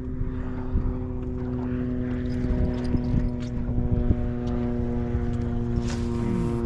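Boat motor running steadily at a constant pitch, with scattered light clicks and knocks over it.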